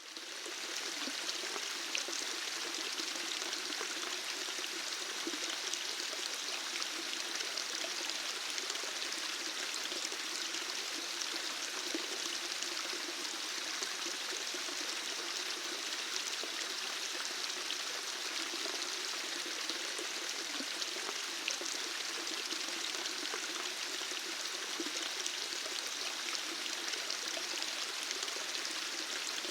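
Running water flowing steadily, an even rushing with small splashes and drips scattered through it. It fades in over the first half second.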